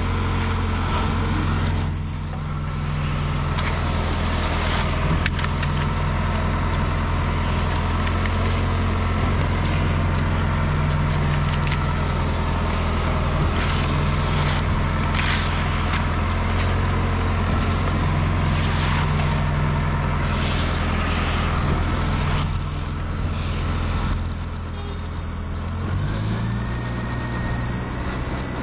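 Large diesel truck engine running steadily, with a high-pitched electronic beeping alarm sounding for the first two seconds and again from about 24 s. The engine note rises a little near the end.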